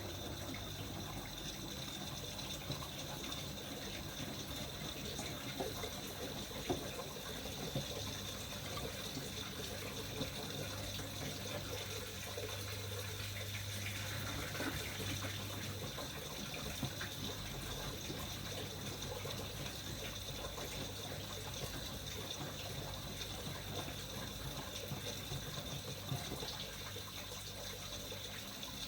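Miele MedicWash W2585 washing machine taking in water: a steady rush of running water with a low hum underneath.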